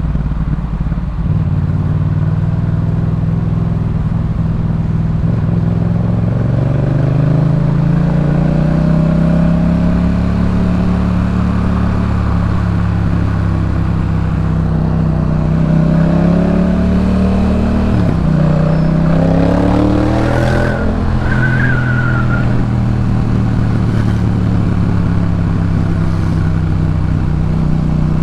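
Yamaha MT-07's 689 cc parallel-twin engine running through a Jeskap K4 full aftermarket exhaust while riding. The engine pitch climbs steadily as the bike accelerates, holds, then dips sharply and picks up again about two-thirds through.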